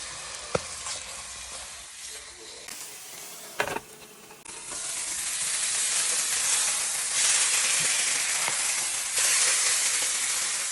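Butter-brushed marinated chicken pieces sizzling on a grill, with a steady frying hiss that gets louder about halfway through. A couple of light knocks come in the first four seconds.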